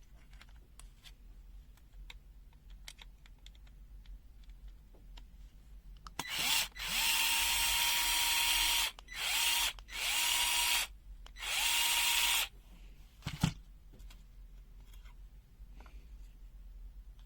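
Small electric drill-driver motor running at a steady pitch in four short runs, starting and stopping within about six seconds. Light handling clicks come before and after, with a single sharp knock just after the last run.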